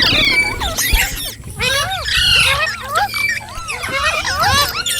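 Several green parrots chirping and squawking at once: quick calls that rise and fall in pitch, overlapping one another with no pause.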